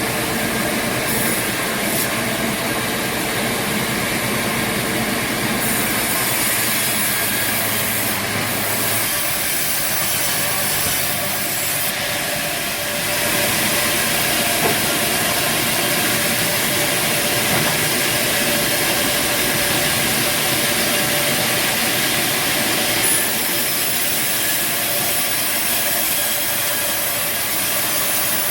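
Bandsaw sawmill running: a steady machine noise with a hiss and a few steady tones. The sound changes about 9 and 13 seconds in.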